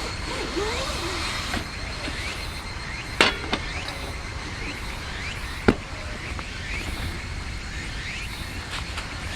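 Outdoor ambience: a steady hiss and low rumble with many short rising chirps, broken by two sharp knocks, about three and about six seconds in.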